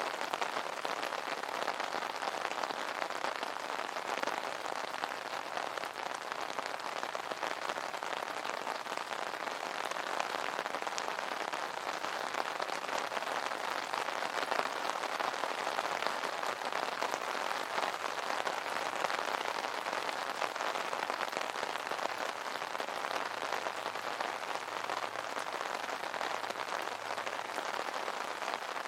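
Steady rain pattering on an umbrella canopy, a dense even patter of drops.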